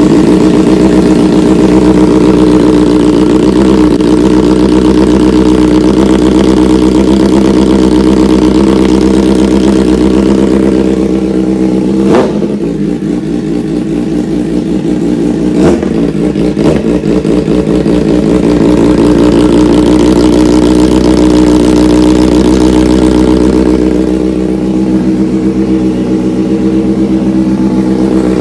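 Kawasaki ZX-4RR inline-four running very loud and steady through a short Austin Racing canister with the catalytic converter deleted, sounding as if it had no canister at all. A few sharp cracks come through near the middle.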